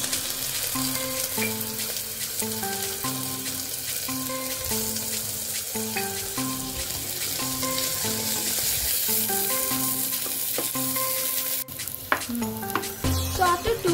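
Onions and green chillies sizzling in hot oil in a pressure cooker, stirred with a wooden spatula. Soft background music with a repeating melody plays underneath, and the sizzle breaks off briefly near the end.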